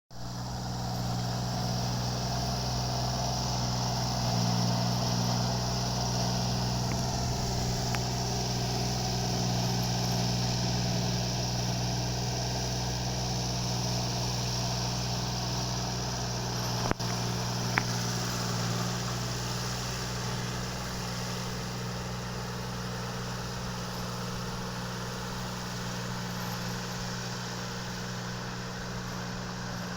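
Engine running steadily at idle, a constant low hum. Two sharp clicks come close together about halfway through.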